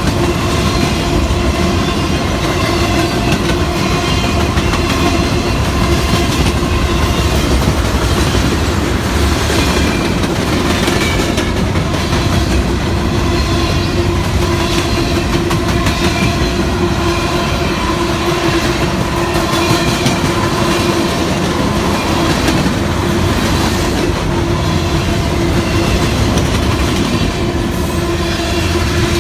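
CSX freight train rolling steadily past, its wheels clicking over the rail joints above a steady tone.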